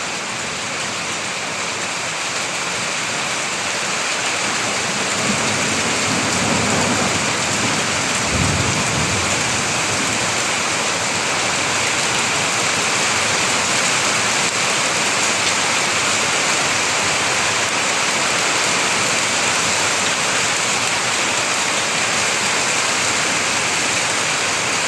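Heavy downpour with hail, rain and hailstones beating steadily on surfaces in a dense, even hiss that builds slightly over the first few seconds. A low rumble of thunder rises under it about seven to nine seconds in.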